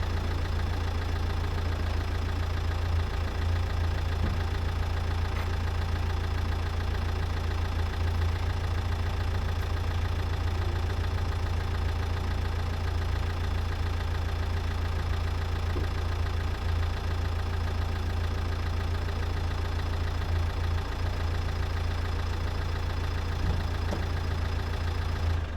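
A Nissan Qashqai's 1.5 dCi K9K diesel engine idling steadily while DPF cleaning foam is fed into its exhaust, the particulate filter being one the owner takes for severely blocked. The engine sound drops away sharply at the very end.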